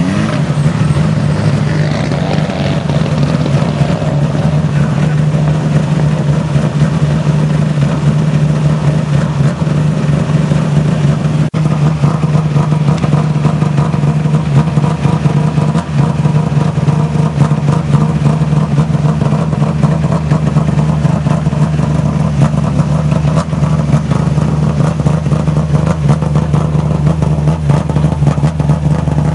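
Renault Clio rally car's four-cylinder engine running steadily at constant revs, with a short rise in pitch right at the start.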